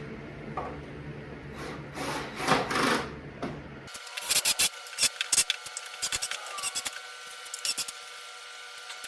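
Wooden workbench parts being handled and worked during assembly: rubbing and scraping sounds, loudest about two and a half seconds in, followed by a run of short clicks and knocks. The sound changes abruptly about four seconds in.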